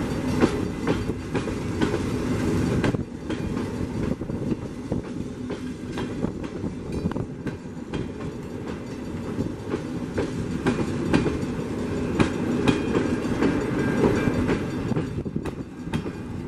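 Passenger coaches of a CNR-built train rolling past at speed: a continuous rumble of wheels on rail, with the wheels clacking repeatedly over the rail joints.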